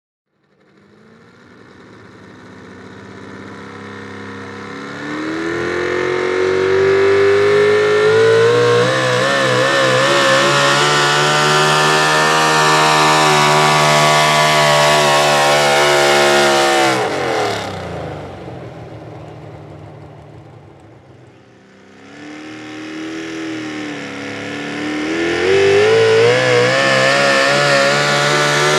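Pro stock four-wheel-drive pulling truck's engine at high revs under load. It fades in and climbs to a loud, steady scream with a wavering pitch. About 17 seconds in the revs drop sharply and it winds down, then it revs back up to full power near the end.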